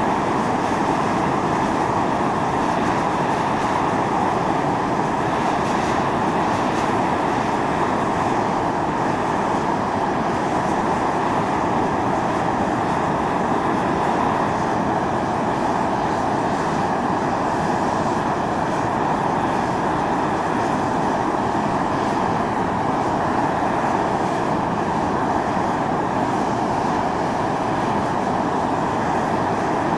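Volcanic steam jetting from the fumaroles of Atosanupuri (Mt. Io): a steady, unbroken hissing rush with its strongest band in the middle range.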